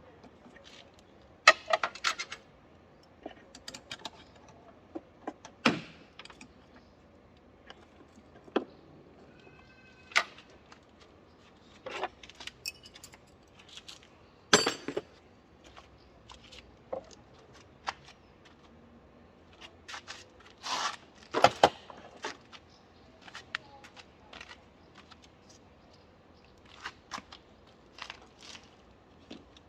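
Irregular clinks, knocks and jangles of metal tools and parts being handled during wiper motor and linkage work, with a few louder clanks about a second and a half in, around the middle and about two thirds of the way through.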